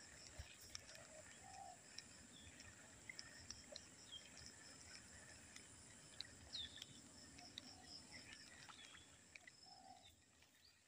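Faint birdsong: scattered short chirps and whistles, with a few low coos every couple of seconds, fading out near the end.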